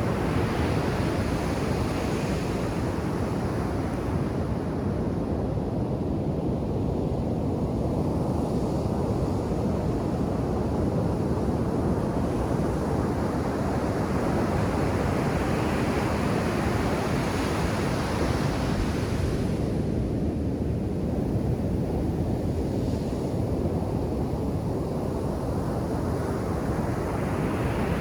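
Ocean surf washing onto a beach in a continuous rush. The hiss of breaking waves swells and fades three times, about a dozen seconds apart.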